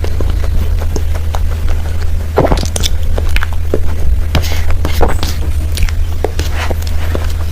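Close-miked eating of a creamy cake: wet squishes and lip smacks while chewing, with irregular sharp clicks, over a steady low hum.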